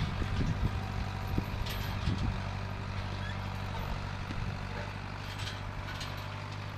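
1968 Case backhoe's engine running steadily at idle.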